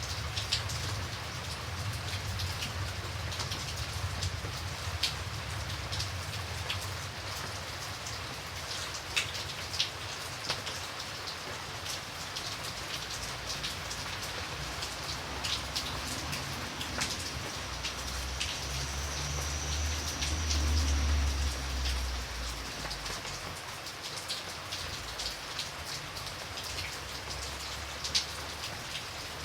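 Steady rain falling, with individual drops tapping sharply close by. About twenty seconds in, a low rumble swells and fades.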